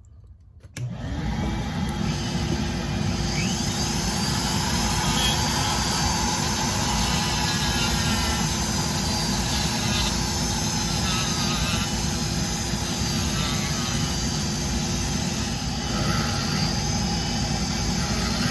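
Foredom flex-shaft rotary tool starting about a second in and running steadily with a constant hum, its rounded Kutzall carbide burr grinding small circles into the wood to texture the feathers.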